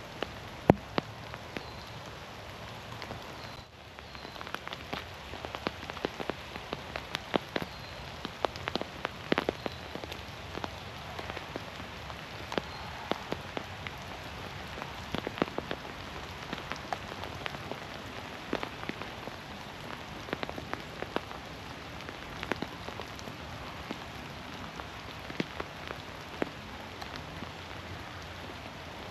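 Rain falling in a forest: a steady patter with many sharp, separate drops landing close by.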